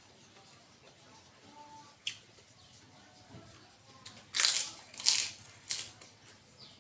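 Close-up crunching as a man bites and chews a crisp white food: three loud crunches between about four and six seconds in, after a small click around two seconds.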